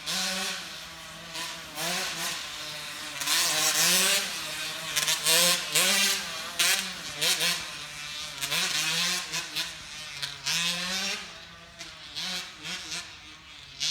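Dirt bike engine revving up and down over and over, its pitch rising and falling about once a second as it rides the hills, with repeated bursts of rushing noise.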